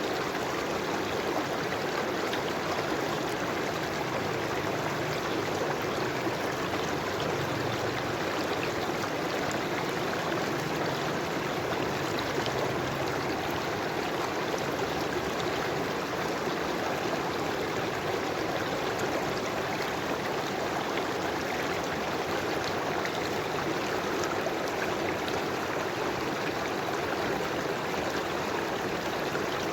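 River water flowing steadily over rocks: an even rushing with small splashes and trickles.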